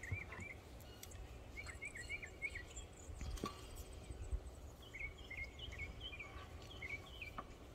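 A songbird singing faintly in short phrases of quick rising-and-falling chirps, four phrases with pauses between them, over a low rumble.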